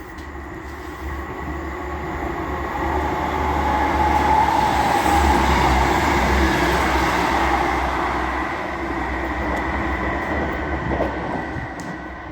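A train passing along the line, growing louder to a peak about four to six seconds in and then fading, with a low rumble under the noise of the wheels.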